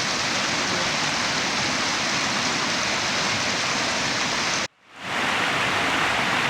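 Mountain stream water rushing, a loud steady hiss with no rhythm. It cuts out abruptly for a moment a little before the end and then fades back in.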